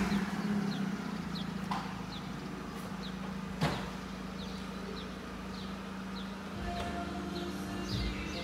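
Peugeot 206 CC engine idling steadily just after starting. Short high chirps come about twice a second, and there is one sharp click about three and a half seconds in.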